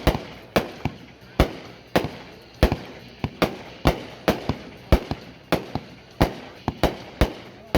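World Class Bachelor Party 500-gram firework cake firing: a steady string of sharp, hard-hitting bangs, about two a second, each with a short ringing tail.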